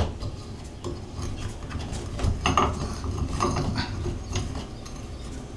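Scattered, irregular light metallic clicks and scrapes of an Allen key tightening a screw on a Moen shower valve handle.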